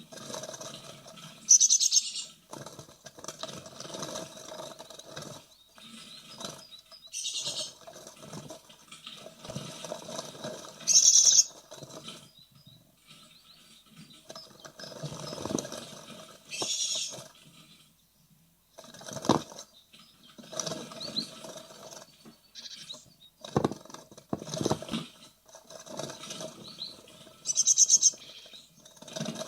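Great tit nestlings in a nest box, with about five short, loud bursts of high-pitched begging calls. Between them comes repeated scratching and rustling as the young move about inside the box.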